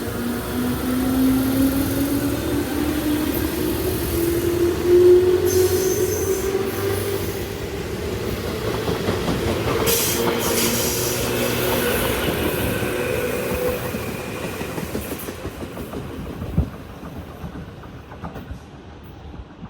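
Tobu Tojo Line electric train pulling out of the station: the traction motors whine, rising steadily in pitch as it accelerates, while the wheels click over the rail joints. The sound fades away near the end.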